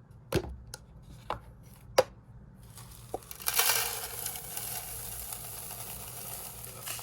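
Sharp clicks of plastic containers and lids being handled, then about three seconds of steady rustling from dry hamster food and its packaging being moved into a storage container.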